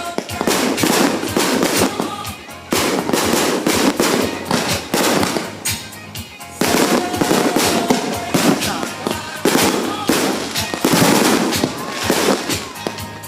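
Fireworks display going off in dense, rapid volleys of crackling bangs, easing briefly about six seconds in, with music underneath.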